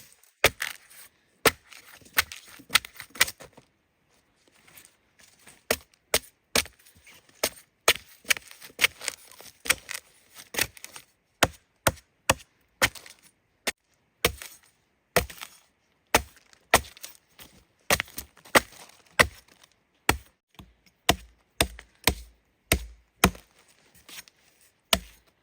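A blade chopping into wood, with dozens of sharp strokes at about one to two a second and a pause of a couple of seconds about four seconds in. This is cutting into a wild tree to get at its core.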